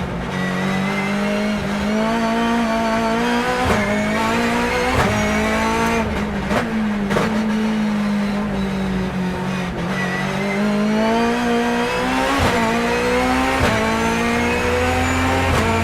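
Turbocharged BMW S14B20 four-cylinder engine of a time-attack BMW E36 at full throttle. The revs climb and cut sharply at each quick upshift of the sequential gearbox, several times over, and sag once in the middle before climbing again.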